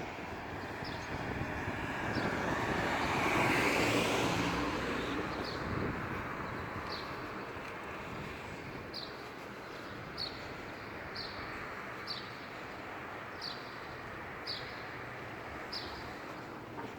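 A vehicle passing by, its noise swelling and fading over a few seconds above steady traffic noise. A bird chirps over it in short high notes, about once a second in the second half.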